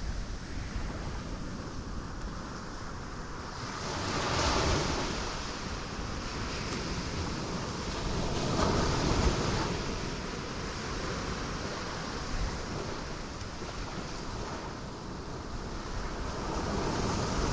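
Sea waves breaking on rocks. Three waves surge in a few seconds apart over a constant low rumble of surf.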